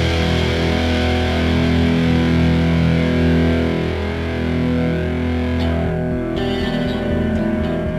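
Instrumental heavy rock: a distorted electric guitar chord rings out over bass and fades. About six seconds in, it gives way to a cleaner guitar picking single notes.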